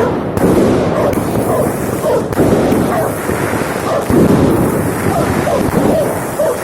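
Fireworks going off in a steady barrage: many bangs in quick succession with crackling between them.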